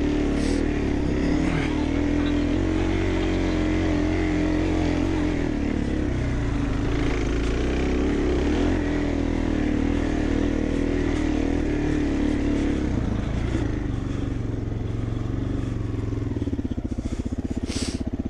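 Dirt bike engine running steadily under throttle, dropping to a slower, pulsing low-rev beat near the end.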